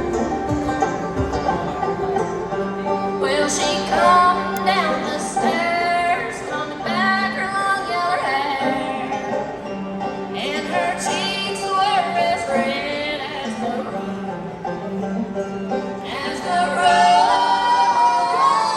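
Live band playing a bluegrass-flavoured arrangement with banjo and guitar, a lead line bending and sliding over a steady bass note.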